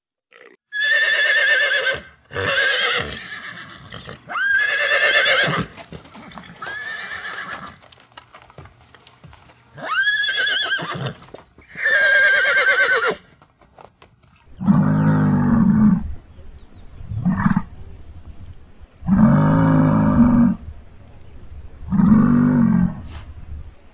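A horse neighing about six times, each whinny a high, wavering call of about a second, and then a muskox giving four deep, short grunting calls.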